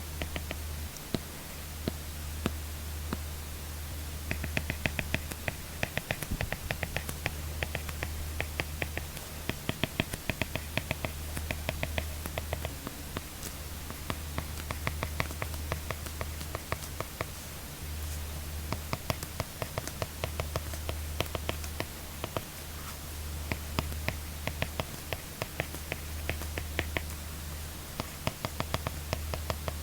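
Apple Pencil tip tapping and scratching on an iPad screen in quick runs of small clicks while handwriting. A steady low hum sits underneath.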